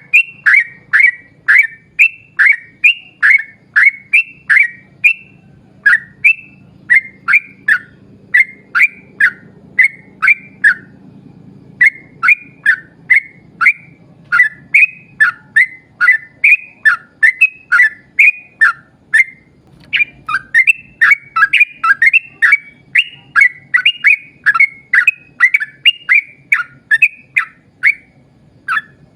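Yellow-vented bulbul (trucuk) singing a long rolling series of short, clear whistled notes, about two to three a second, broken by a few brief pauses.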